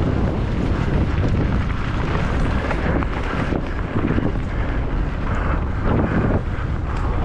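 Wind rushing over a camera microphone on a mountain bike descending at speed, a loud steady roar with the bike's rumble underneath.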